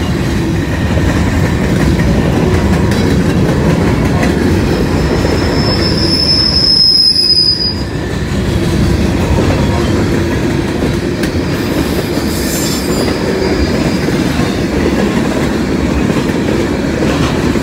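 Freight train cars rolling past close by on a curve: a steady, loud rumble of steel wheels on rail, with a high-pitched wheel squeal lasting about two seconds, starting some six seconds in.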